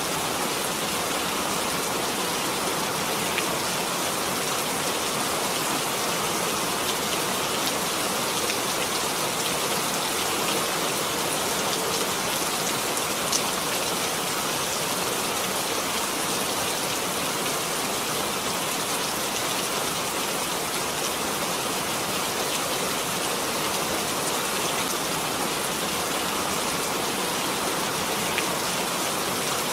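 Steady rain falling, an even hiss with occasional distinct drop ticks.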